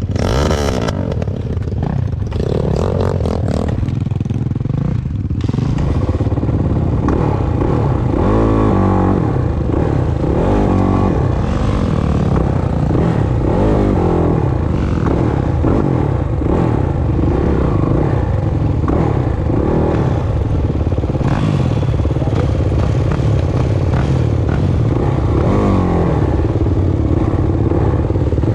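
Motocross dirt bike engines revving hard, the pitch climbing and dropping again and again as the riders work through the gears, with rattling and clatter throughout.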